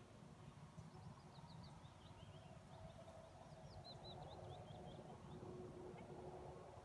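Near silence outdoors, with a faint songbird singing: two short runs of quick high chirps, about a second in and again about four seconds in, over a low background rumble.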